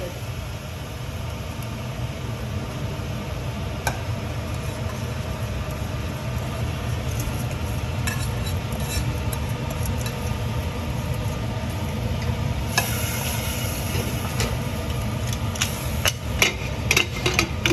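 Steady low rumble and hiss of a pressure cooker of rice heating on the stove. There are single clicks about four and eight seconds in, and a run of knocks and clatters in the last two seconds.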